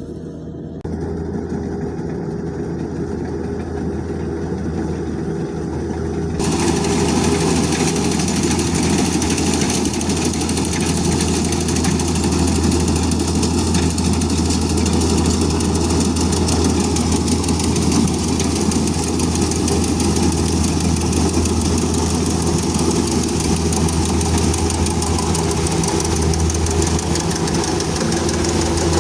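Engine of a rice combine harvester running steadily with an even low hum. About six seconds in a loud rushing noise joins it and continues.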